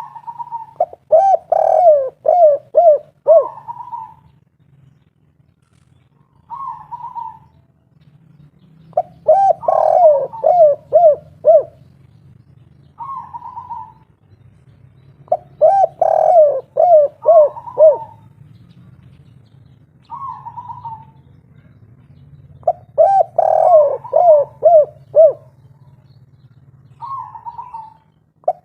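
Spotted dove cooing its 'kuk 3' song: four phrases of several quick falling coos, repeated about every seven seconds, with single short higher notes between them. A faint low hum runs underneath.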